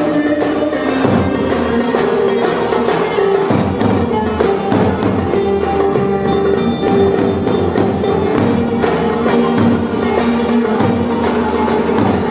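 Turkish folk ensemble playing the instrumental opening of a Muğla-region türkü, held melodic notes over a steady percussion beat.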